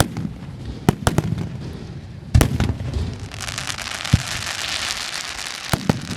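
Fireworks display: several sharp bangs of bursting aerial shells spread through, with a dense hissing crackle of crackling stars setting in about three seconds in.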